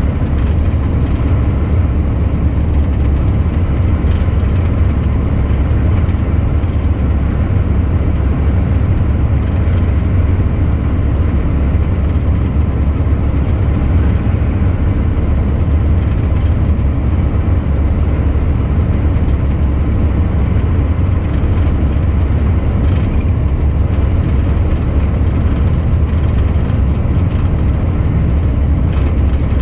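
Truck on the move: a steady deep drone of engine and road noise at an even speed, unchanging throughout.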